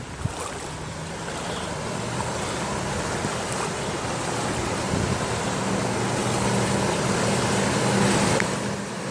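A vehicle driving through deep floodwater: a steady low engine hum under a rushing wash of displaced water, growing louder as it approaches.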